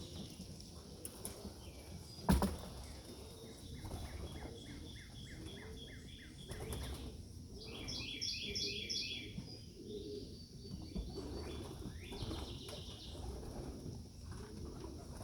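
Young racing pigeons flapping their wings as they are let out of the loft, with a single sharp knock about two seconds in. Birds chirp over it, a quick run of short high notes a few seconds in and a louder chirping series about midway.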